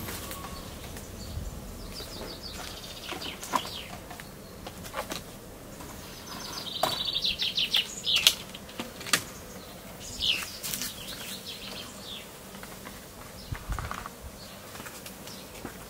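Birds chirping, with descending calls and a quick trill about halfway through, over a few light clicks and taps.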